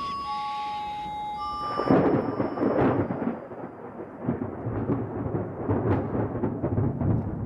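Sustained music tones, then from about two seconds in a loud thunderstorm: rolling thunder that rumbles on in surges.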